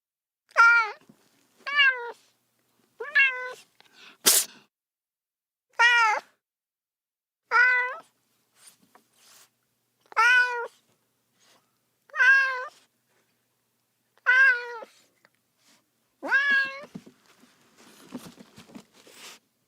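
Kitten meowing over and over, about nine short cries a couple of seconds apart, each rising and falling in pitch, the distress calls of a baby cat left alone. A single sharp click comes a little after the third cry, and soft rustling sounds near the end.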